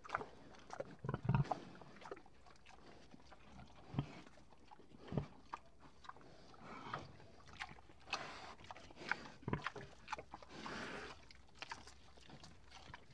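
Cow biting and chewing a watermelon: irregular wet crunches and snaps, with a few duller, louder knocks.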